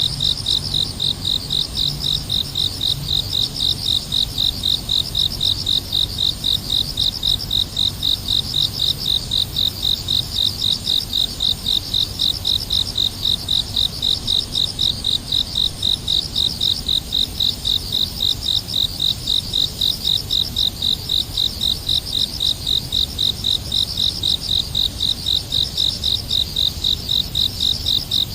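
An insect, most likely a cricket, chirping steadily in an even, high-pitched rhythm of about three chirps a second.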